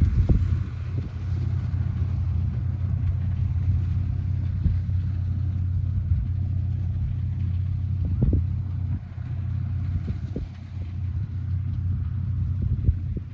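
Farm tractor engine running steadily with a low drone, with a few short clunks from the machinery, the loudest about eight seconds in.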